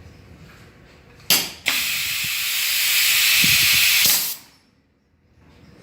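Semi-automatic perfume bottle valve crimping machine venting compressed air: a short blast a little over a second in, then a loud, steady hiss for about two and a half seconds that cuts off.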